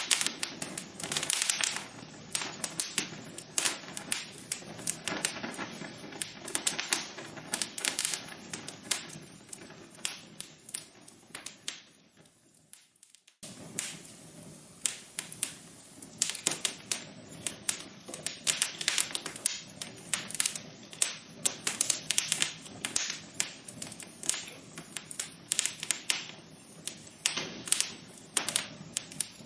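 Wood fire burning in a fireplace, crackling and popping in dense, irregular snaps over a soft hiss. The crackling fades out for about a second near the middle, then comes back abruptly.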